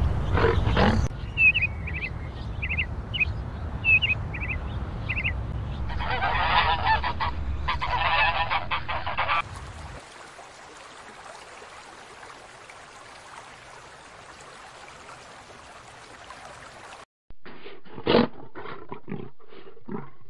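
A string of short animal clips. Several short high bird calls come first, then a louder burst of overlapping calls. After that comes a quieter stretch of faint hiss, with a few sharp knocks near the end.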